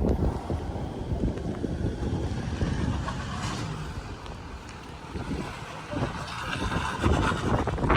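Wind buffeting the microphone in a rainstorm: a rough low rumble that eases around the middle and swells again near the end.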